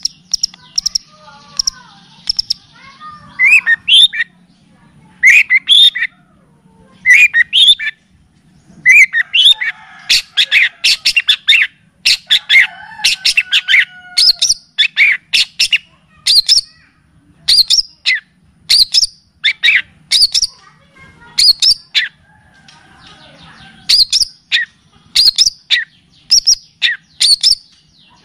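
Recorded songbird song: phrases of sharp, rapid chirps and short trills, repeated again and again with brief pauses between phrases, with softer lower warbling in places.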